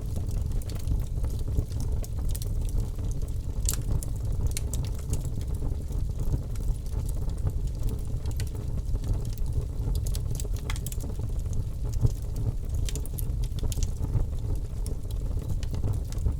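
Wood fire burning in a fireplace: irregular crackles and pops over a steady low rumble, with one sharper pop near the end.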